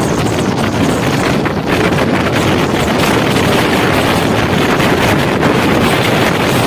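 Wind buffets the microphone over the steady rumble of a moving passenger train's wheels on the track, recorded from an open coach door.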